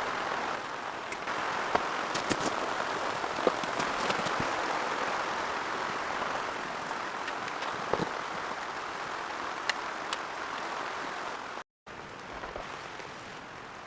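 Steady rainfall with scattered sharper drop hits. It cuts out for a moment near the end and resumes a little softer.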